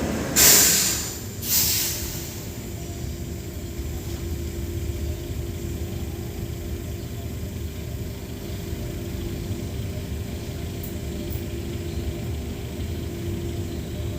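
Two sharp hisses of compressed air from the trolleybus's pneumatic system, about half a second and a second and a half in. After them comes a steady low hum with a faint held tone from the VMZ-5298.01 Avangard trolleybus.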